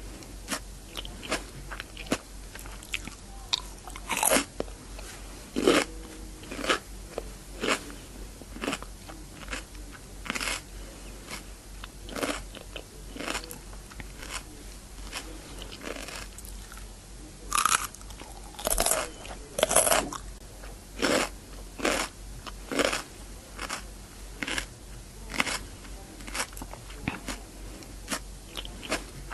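Crunchy bites and chewing of raw cucumber close to the microphone: a run of sharp, wet crunches about one or two a second, with a few louder ones in a cluster past the middle.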